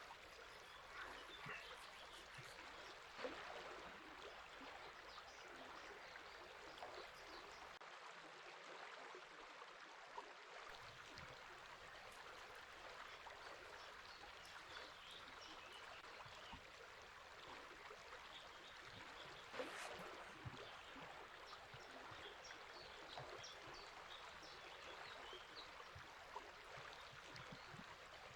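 A river flowing steadily with a soft burble of water, with faint bird chirps here and there.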